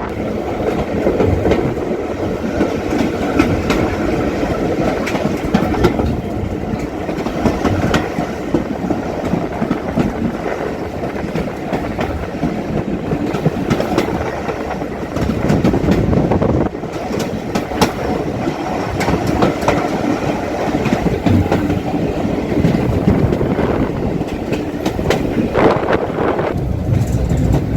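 A passenger train running along the track, heard from on board, with the wheels clattering and clicking over the rail joints.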